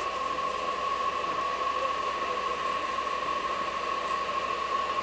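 Steady hiss and hum inside an air-conditioned train coach while the train runs, with a constant high-pitched whine throughout.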